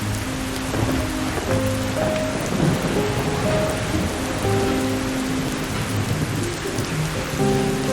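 Steady rain with a low roll of thunder about two and a half seconds in, under slow, soft sustained music notes.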